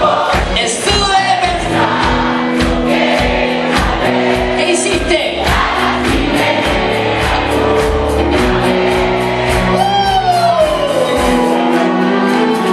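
Live band playing with a steady drum beat, held notes and singing voices; the drum beat stops about a second before the end.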